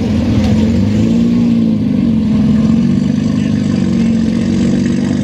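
A car engine idling close by, a steady low running note that wavers slightly in pitch.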